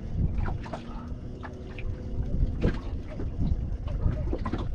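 Wind buffeting the microphone on a small fishing boat, with scattered knocks and clicks of handling on board and a faint steady hum that fades out about halfway through.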